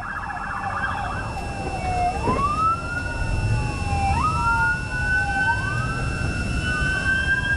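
Police car siren: a short burst of fast yelp at the start, then a wail sweeping slowly down and up in pitch, over the low rumble of a moving vehicle.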